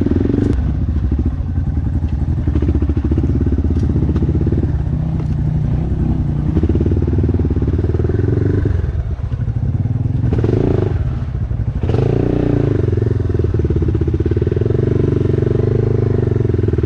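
Dirt bike engine running and revving up and down under load, its level rising and falling several times with a dip in the middle, as the bike struggles to climb the rock slab.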